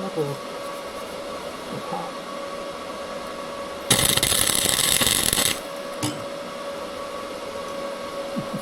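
A welding arc crackling in one short burst of about a second and a half, about four seconds in, as a bead or tack is laid on steel, over a steady background hum.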